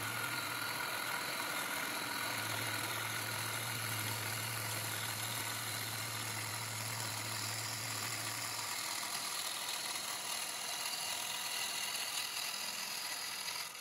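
Wood lathe running while a gouge cuts the outside of a cross-grain (side-grain) piece, working from the axis outward. It is a steady hiss, and a low hum underneath stops about two-thirds of the way through.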